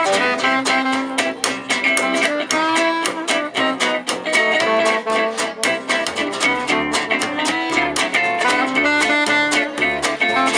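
Gypsy jazz (jazz manouche) band playing an instrumental passage live: acoustic guitars strumming a steady beat under a held melody line.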